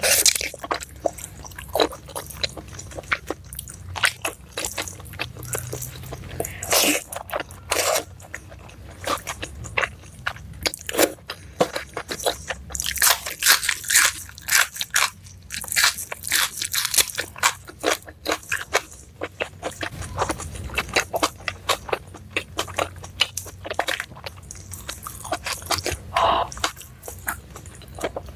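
Close-miked chewing of rice and meat eaten by hand: irregular crunching, wet smacking and mouth clicks, busiest in the middle.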